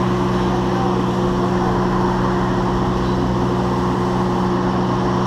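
A machine running with a steady hum that holds a few fixed low tones over a constant noisy background, unchanging throughout.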